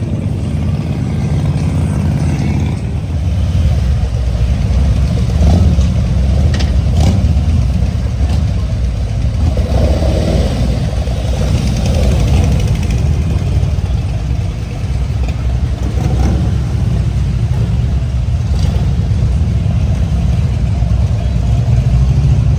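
Motorcycle engine running, a steady low engine note that swells and eases a little over the span.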